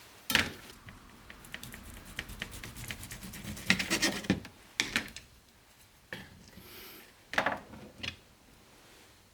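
Kitchen food-preparation handling sounds: a sharp knock, then a few seconds of quick scraping and tapping of utensils, followed by a few more knocks against dishes or a board.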